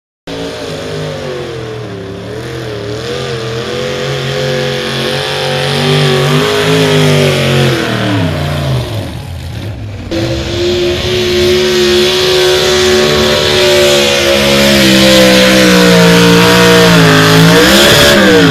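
Super stock two-wheel-drive pulling truck's engine running at full throttle under load, its pitch wavering and sagging as it pulls, growing louder. The sound breaks off abruptly about ten seconds in and resumes, and near the end the pitch briefly rises and then falls.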